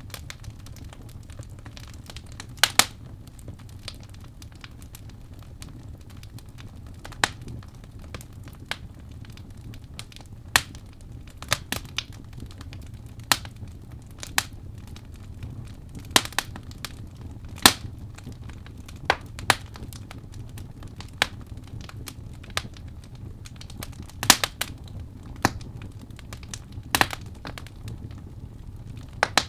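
Wood fire crackling: irregular sharp pops and snaps, a few every several seconds, over a steady low rumble of the flames.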